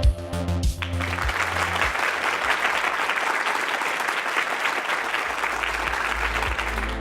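Applause from many hands, a dense even clatter that starts about a second in, over electronic background music whose bass drops out for a few seconds and then returns.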